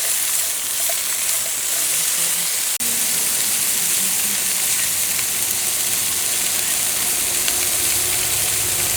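Food sizzling and frying on hot metal, a steady loud hiss with a brief break about three seconds in.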